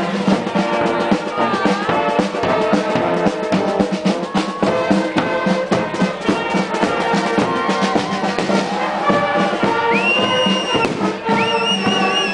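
Brass band playing a tune with drum beats, trumpets and trombones carrying the melody. A high warbling note joins near the end.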